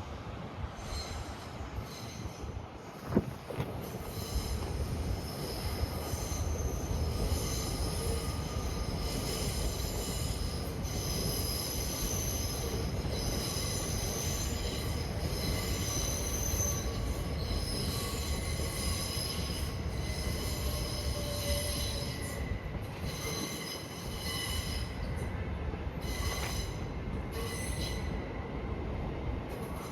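A train moving slowly through a station over a steady low rumble, its wheels or brakes squealing in several high-pitched tones for most of the time. There is one sharp metallic clank about three seconds in.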